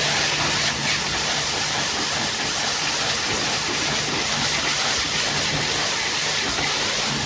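High-pressure washer spraying water in a steady hissing jet, with a steady low hum from the machine under it.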